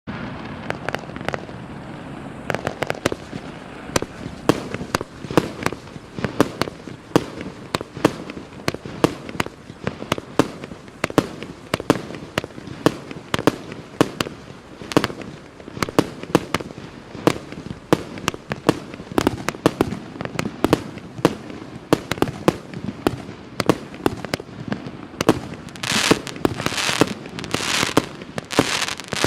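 A 124-shot consumer fireworks battery (cake) of 1-inch and 1.2-inch shots firing in rapid succession, with sharp bangs of launches and bursts coming two or three a second. The shots come thicker and louder over the last few seconds.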